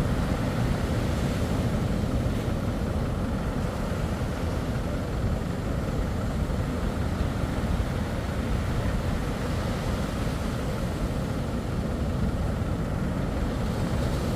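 Steady rumble of boat outboard motors running, mixed with the wash of surf.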